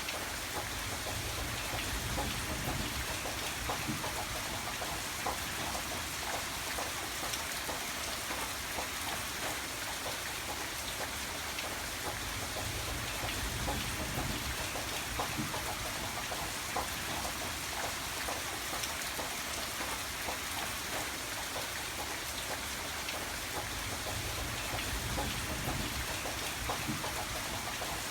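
Steady rain falling on a surface, an even hiss full of fine drop ticks, with a low rumble that swells and fades a few times underneath.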